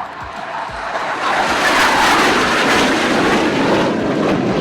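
Hawk jets of the Indian Air Force Surya Kiran aerobatic team passing low and fast overhead. A rushing jet noise swells about a second in, is loudest around two seconds, then begins to fade near the end.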